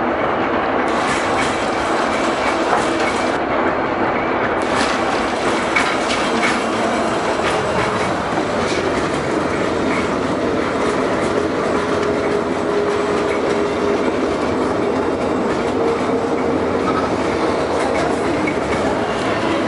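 A Soviet LM-68M tram coupled pair running along the line, with the steady rumble of wheels on rail and clicks over rail joints. A faint whine comes in for several seconds in the middle.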